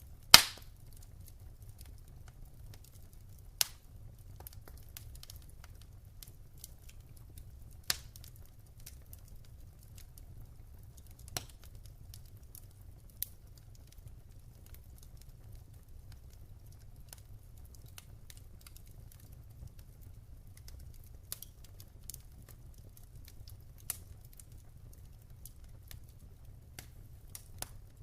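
Wood fire crackling in a fireplace: irregular sharp pops and snaps, the loudest just after the start, over a low steady rumble.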